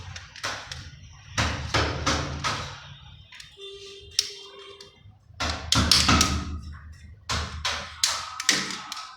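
Irregular clicks, taps and knocks of hand tools and plastic socket parts being handled while an AC power socket is wired, with a brief steady tone about three and a half seconds in.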